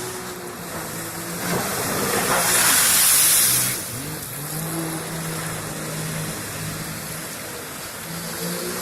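Jet ski engine running, its pitch rising and falling with the throttle. A loud rushing hiss swells in about a second and a half in and cuts off sharply near the middle.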